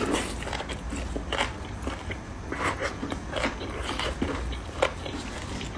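Close-up mouth sounds of eating beef bone marrow: irregular soft chewing, smacking and small clicks.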